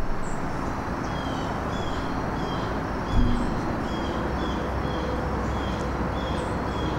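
Outdoor ambience: a bird repeats a short, slightly falling chirp about twice a second over a steady low rumble. A single dull thump comes about three seconds in.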